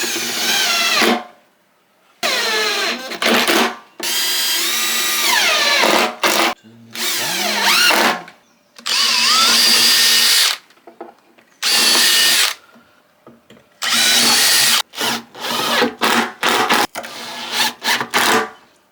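Electric drill-driver running in repeated bursts of a second or two, its motor pitch rising and falling as screws are driven in to fit the roof hinges. Near the end it gives a string of quick short bursts.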